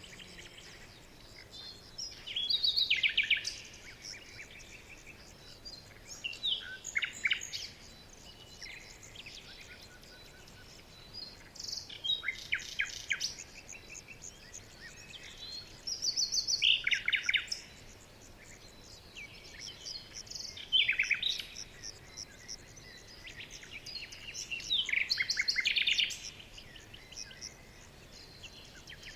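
Songbirds singing: about seven loud phrases of quick, high chirps a few seconds apart, each lasting a second or two, with fainter chirping between them.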